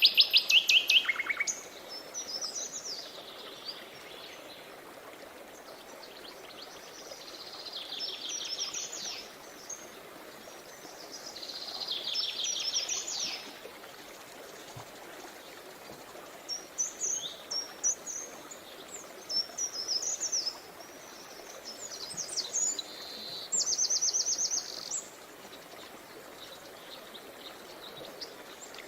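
Songbirds singing: rapid trills and short chirping phrases every few seconds, the loudest trill right at the start. Underneath runs a steady rush of river water.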